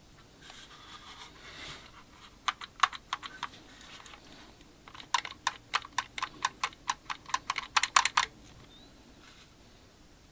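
Quick clicks of keys or buttons being pressed, like typing. After a brief rustle there is a short run of about eight clicks, then a faster run of about twenty that stops suddenly.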